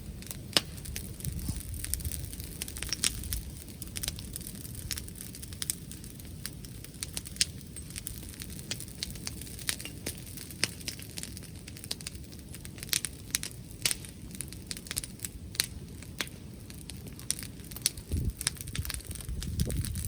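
Wood bonfire crackling, with frequent irregular sharp pops and snaps over a steady low rumble. Near the end come a few heavier low sounds.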